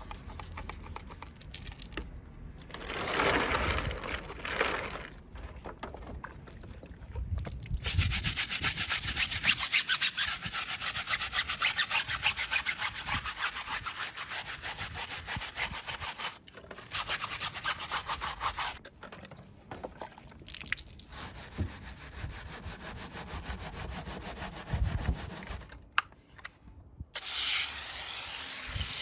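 Brush scrubbing, a dry rubbing scratch made in stretches of several seconds with short pauses between them; the longest runs about eight seconds near the middle.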